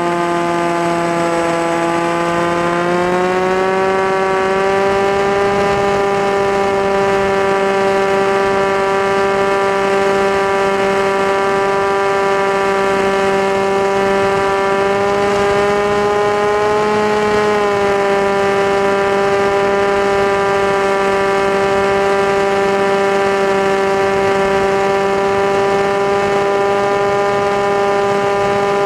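Onboard sound of an FPV model aircraft's motor and propeller: a steady, loud whine that climbs in pitch about three seconds in, rises slightly again past the middle, then drops back and holds steady.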